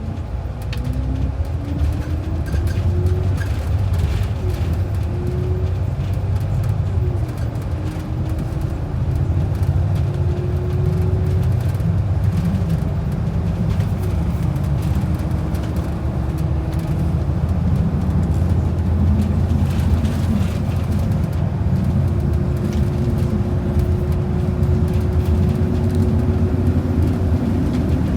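Transit bus engine and drivetrain heard from inside the cabin: a steady low rumble with a whine that climbs and drops back several times in the first half as the bus shifts up through its gears, then holds steady as it cruises.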